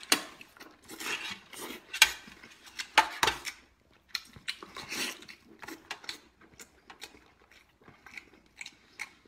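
Close-up biting and chewing of a sauce-glazed braised octopus piece: irregular wet mouth clicks and bursts of chewing, heavier in the first half and smaller and sparser in the second.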